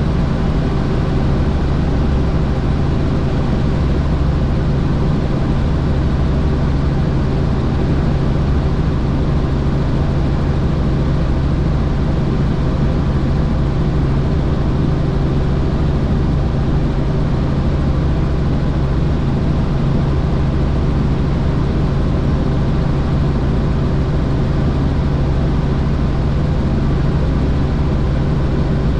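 Helicopter in flight: a loud, steady drone of rotor and engine with a constant low hum.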